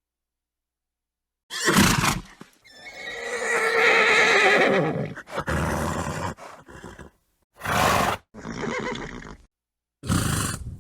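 A string of horse calls: a short blast, then a long wavering whinny about three seconds in, followed by shorter neighs and blasts, each cut off sharply by dead silence.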